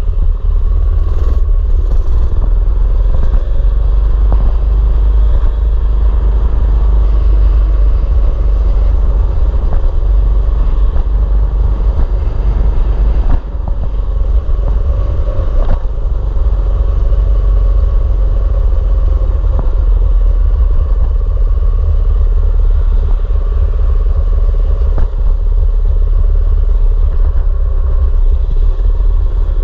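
Mini bike's small engine running steadily while being ridden, with heavy wind rumble on the microphone. There is a brief drop in loudness about halfway through.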